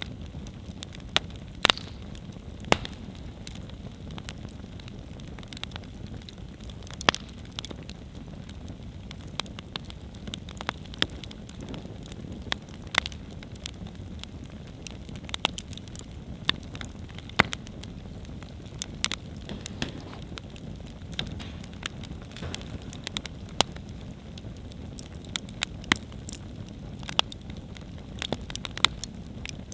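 Wood campfire burning, with a steady low rush under irregular sharp crackles and pops, several a second at times.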